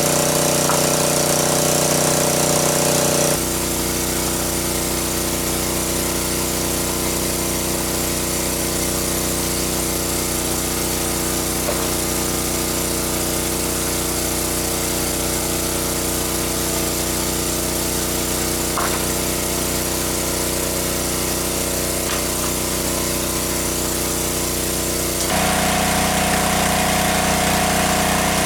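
A small engine running steadily with a droning hum. Its tone changes abruptly about three seconds in and again near the end.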